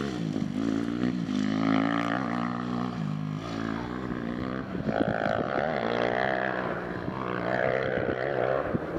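Dirt bike engine running under riding, its revs rising and falling.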